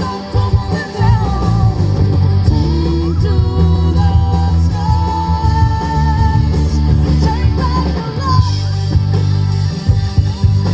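Live rock band playing, with guitar over a strong, steady bass.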